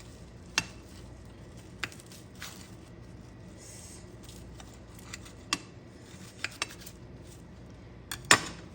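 A knife clicking and knocking against a plate while a freshly baked puff-pastry egg puff is cut open: a few sharp, separate clicks, the loudest near the end.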